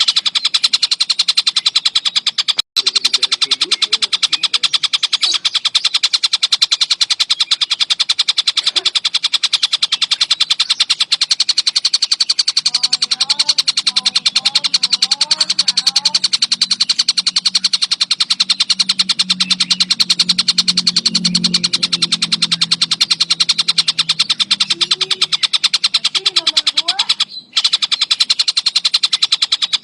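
A songbird's rapid, continuous high-pitched trilling song, broken only by two brief cuts, with fainter lower bird calls beneath it in the middle.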